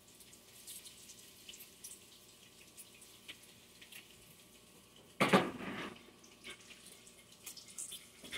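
Breaded fried rice balls frying in hot Crisco oil: a steady sizzle with small pops and crackles. A brief louder noise cuts in about five seconds in.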